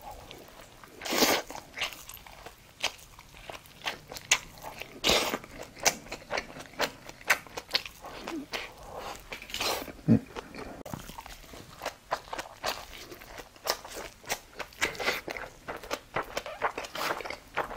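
A person chewing and biting food: a rapid, irregular run of crunches and wet mouth smacks.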